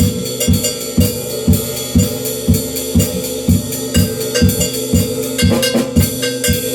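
Drum kit played to a steady beat, with low bass-drum strokes about twice a second under cymbals, and a busier run of strokes about five and a half seconds in.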